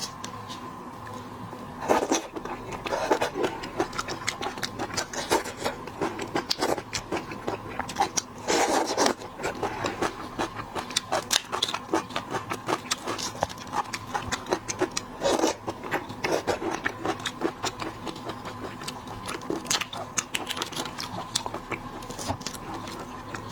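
Close-miked shrimp being peeled and eaten: irregular crackling and snapping of shell with wet chewing, a few louder clusters of cracks along the way, over a faint steady hum.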